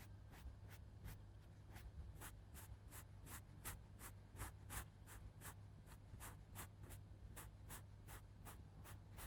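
Faint, even scratchy strokes of a makeup tool in ASMR makeup simulation, about three a second, over a low steady hum.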